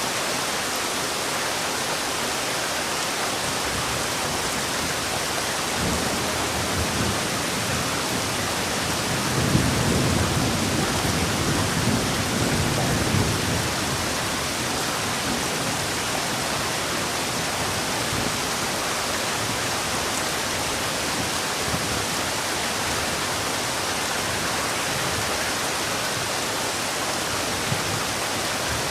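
Heavy rain falling steadily. About ten seconds in, a low rumble of thunder rolls for four or five seconds.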